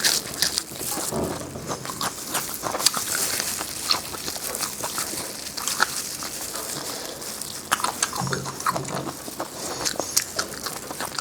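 Close-miked chewing and biting of food, a steady run of short wet clicks and crunches from the mouth.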